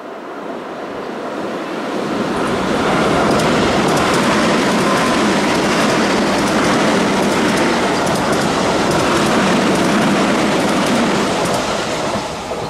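Keio Line electric commuter train passing through the station at speed. Its wheel and rail noise swells over about three seconds, holds loud with faint clicks of the rail joints, then fades as it leaves.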